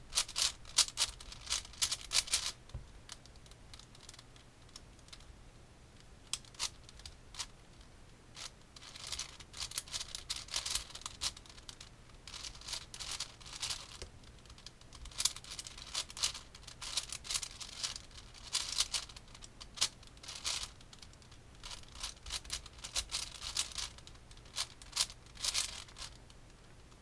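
Plastic Rubik's cube being turned fast: bursts of rapid clicking and clacking from the layers, broken by short pauses.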